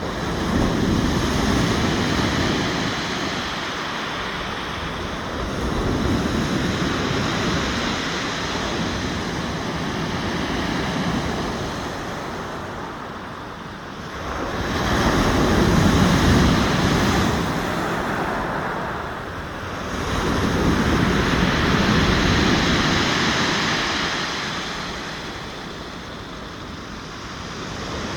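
Black Sea waves breaking on the shore, the surf swelling and falling back in slow surges every few seconds.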